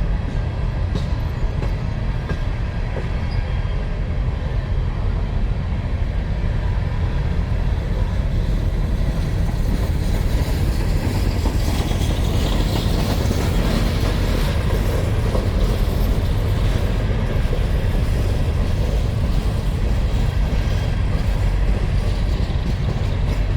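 Freight train of empty mine cars rolling past, a steady rumble and rattle of steel wheels on the rails that grows somewhat brighter and louder about halfway through.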